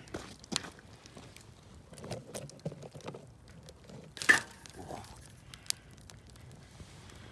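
Wood fire crackling: scattered small crackles and snaps, with one loud sharp pop about four seconds in.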